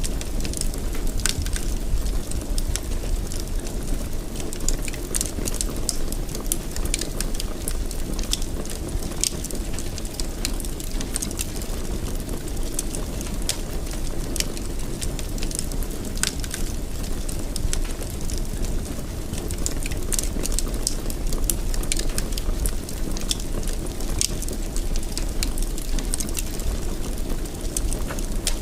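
A fire burning in a fireplace: a steady low rumble with irregular sharp crackles and pops, several a second.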